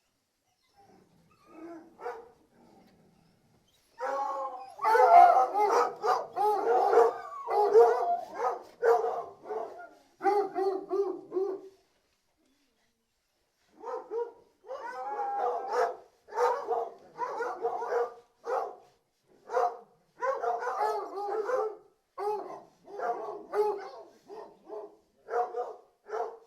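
A pack of hunting hounds baying, barking and howling, many voices overlapping. A few faint calls come first, then the pack gives voice loudly about four seconds in, falls silent for a second or two midway, and starts up again.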